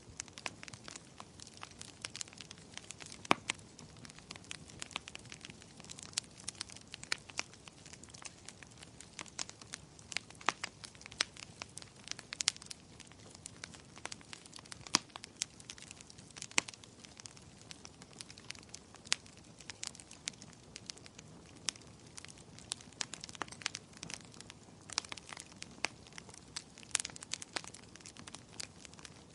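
Wood fire in a fireplace crackling: frequent irregular sharp pops and snaps over a low, steady hiss of burning, with a louder pop about three seconds in.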